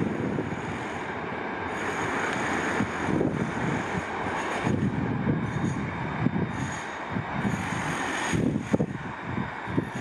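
A freight train of covered sliding-wall wagons rolls past on the rails with a steady rumble and irregular clatter of wheels over rail joints. A faint high wheel squeal comes and goes, and a sharp clank sounds near the end.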